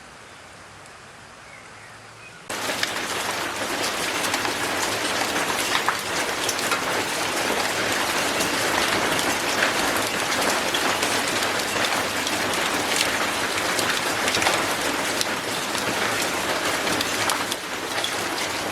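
Heavy rain falling, a dense steady patter of raindrops. It cuts in suddenly about two and a half seconds in, after a faint hiss.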